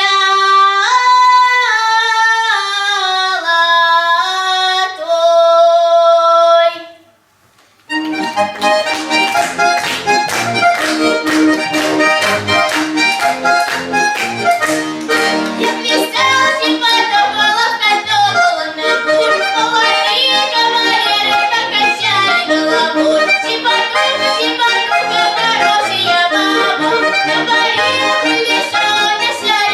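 A sustained melodic line with stepwise held notes ends about seven seconds in. After a brief pause, an accordion starts a piece with quick, many-note passages and a steady rhythm.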